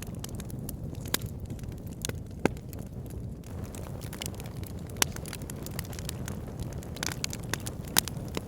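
Wood fire in a log burner crackling, with a steady low rumble of flames under scattered sharp pops and snaps from the burning logs, the loudest about five seconds and eight seconds in.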